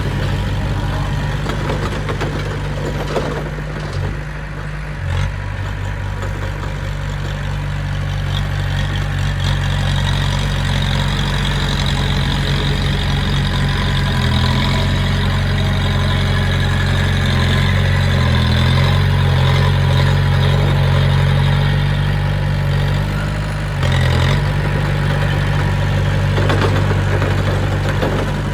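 Diesel engine of heavy earthmoving equipment running steadily at an even low pitch, dipping briefly about four seconds in and again about four seconds before the end.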